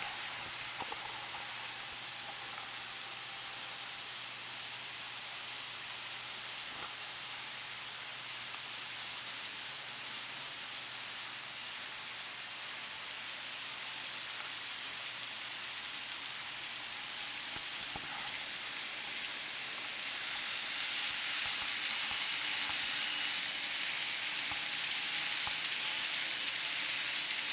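N-scale model train running on the layout: a steady hiss of wheels and motor that grows louder about twenty seconds in.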